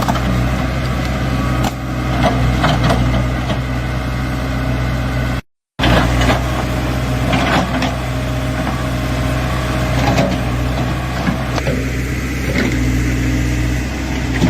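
A vehicle engine running steadily with a low hum and scattered clicks and knocks over it. The sound cuts out completely for a moment about five and a half seconds in.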